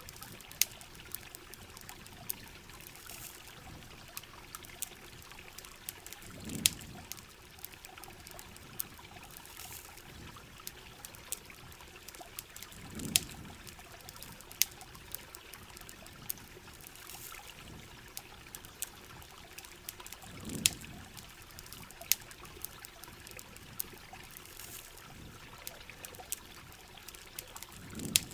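Steady heavy rain with water trickling and pouring, campfire crackling in sharp scattered pops, and a low swell of water that comes back about every seven seconds.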